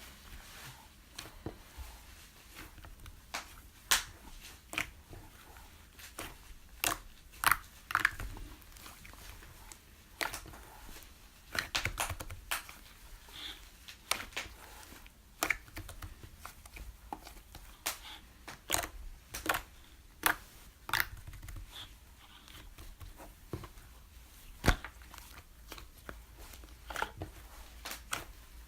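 Pink slime being squished and poked by hand, giving irregular sharp clicks and crackly pops, with a few louder snaps.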